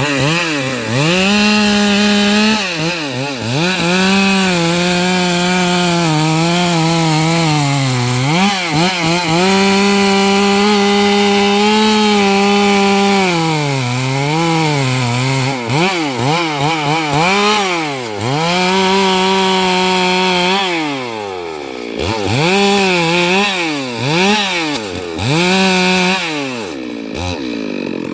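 Stihl MS 382 chainsaw, a single-cylinder two-stroke, cutting lengthwise through eucalyptus logs. It is held at full throttle for long stretches, and the revs drop and climb back again several times, most often in the second half.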